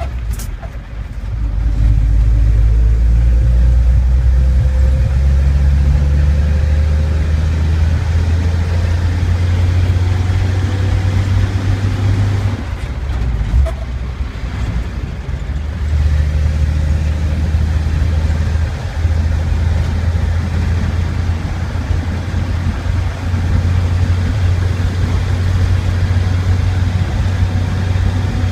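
1946 Chevrolet 2-ton truck's straight-six engine running steadily under way. The engine note eases off about twelve seconds in and builds again about four seconds later.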